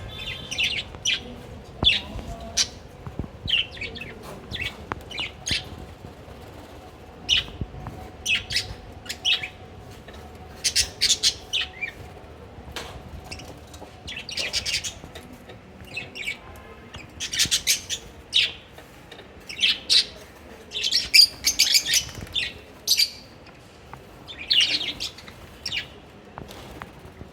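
Lovebirds chirping: many short, high-pitched calls in irregular clusters, growing busier about halfway through.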